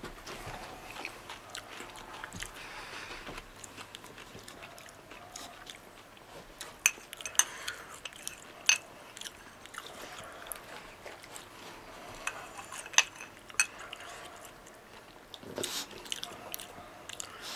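A person chewing a mouthful of soup with roasted crickets and larvae in it, with a few sharp clicks scattered through the middle.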